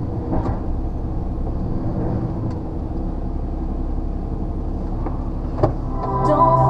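HGV lorry running steadily, its low engine and road drone heard from inside the cab, with a sharp click about five and a half seconds in. Music comes in near the end.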